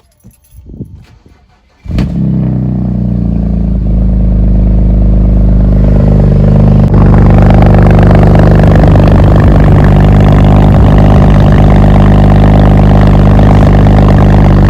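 BMW 535i's N54 twin-turbo straight-six cranks and fires about two seconds in, then idles loudly and steadily through an exhaust with no tips fitted. A cold start, left to warm up.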